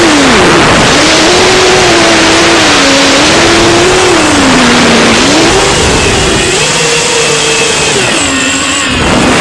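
A 6-inch FPV quadcopter's motors and propellers, running on a 6S battery. Their whine rises and falls in pitch as the throttle changes, over a loud rushing hiss.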